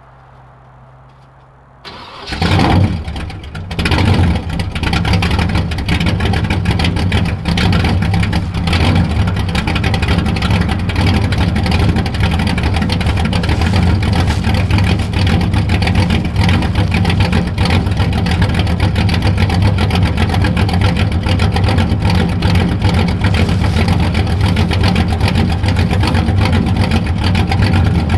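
Chevy 350 small-block V8 with a Summit Racing 8802 cam, straight-piped with the mufflers off, starting about two seconds in: a brief crank, a loud surge as it catches, then a loud steady idle.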